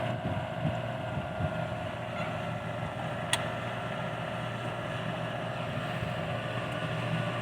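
An engine running steadily with an even hum, with a single short click about three seconds in.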